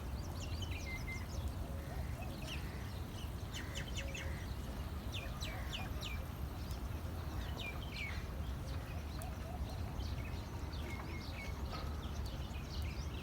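Small birds singing and chirping: many short, quick downward-sweeping chirps, coming in clusters throughout, over a steady low rumble.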